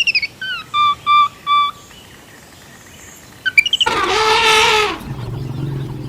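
A run of animal calls. First come a bird's short falling whistled notes, ending in three repeated notes. After a pause there are quick chirps, then a loud drawn-out call about a second long, then a low steady call.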